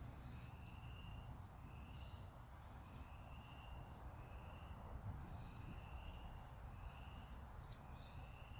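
Faint bird calls: short, high whistled notes repeating about once a second over low background noise, with a few faint clicks.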